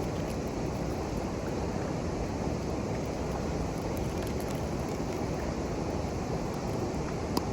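Steady low rushing outdoor noise, with a single sharp click just before the end.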